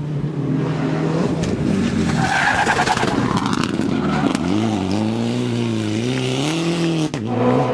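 A World Rally car's turbocharged four-cylinder engine working hard on a stage, its pitch swinging up and down with throttle and gear changes, with tyre skid and scrabbling noise. The sound breaks off abruptly for a moment about seven seconds in.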